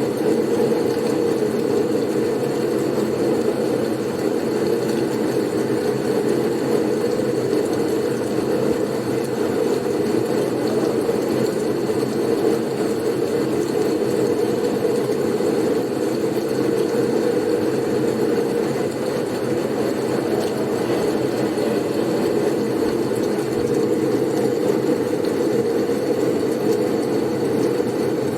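Blizzard soundscape: steady wind noise, a low, even rush that never gusts or breaks, with a faint high whistle running through it.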